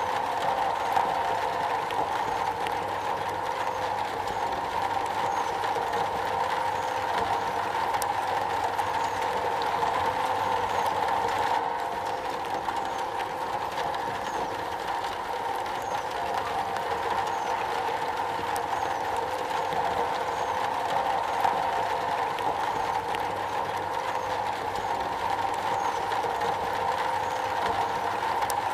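Rain falling steadily on a metal roof, an even unbroken patter with a resonant ring in the mid range.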